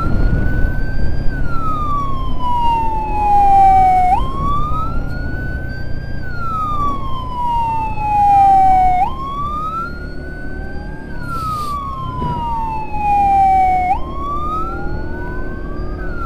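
Emergency siren sounding a slow wail: each cycle rises quickly, then falls slowly over about three seconds before jumping back up, repeating about every five seconds. A steady low road rumble runs underneath.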